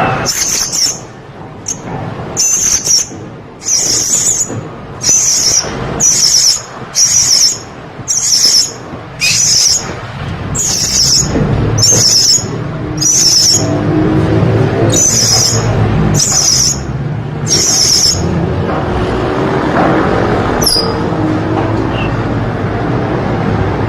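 Blue-crowned hanging parrot (serindit) in full song, giving a long series of short, high, shrill chirps, roughly one a second, which stop about 18 seconds in. A low rumble runs underneath from about halfway.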